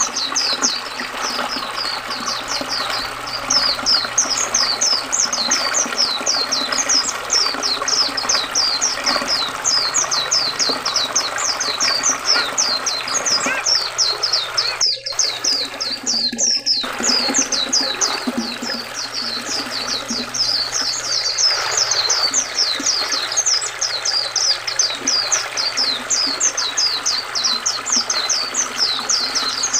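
White-eyes (pleci) singing a fast, continuous high twittering of quick down-slurred notes over steadily running river water. The sound briefly cuts out twice about halfway through.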